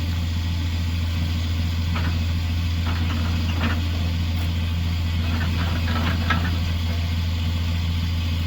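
Truck engine idling steadily, with a few faint clinks and scrapes of metal in the middle.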